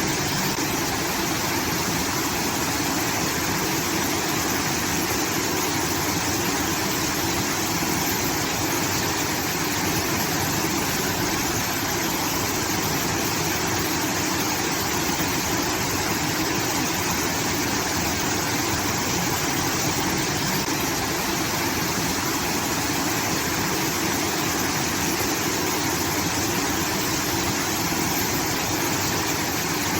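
Water from a rice-field irrigation outlet pouring and splashing in a steady rush, much like a small waterfall.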